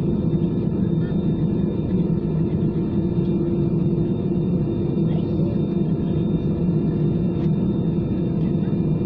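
Steady cabin drone inside an Airbus A320-214 airliner: a continuous low rumble with steady humming tones over it.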